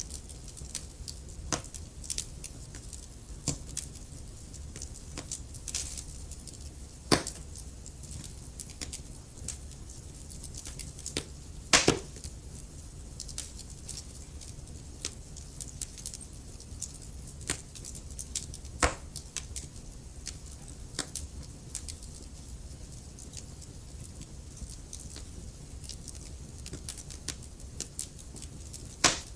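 Wood fire burning in a fireplace: logs crackling with scattered sharp pops over a steady low rumble of the flames, the loudest pops about seven seconds in, about twelve seconds in and near the end.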